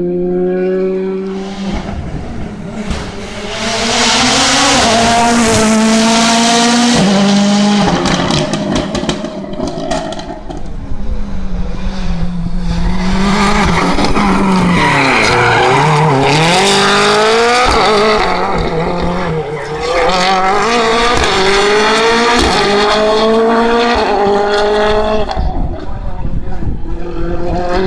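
Rally cars at full throttle on a closed stage, the engine pitch climbing and dropping again and again with the gear changes, with tyre noise. It is loudest in three stretches, from about 4, 11 and 20 seconds in, as cars come close.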